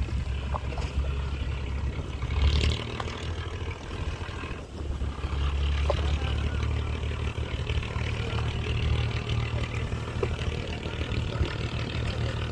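Boat engine running with a steady low drone under wind and water noise, with a brief louder rush about two and a half seconds in.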